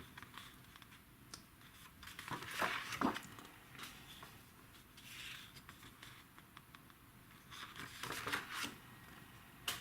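Sheets of drawing paper rustling as they are handled and turned, in a few brief soft bursts, the most distinct about two and a half seconds in and again around eight seconds.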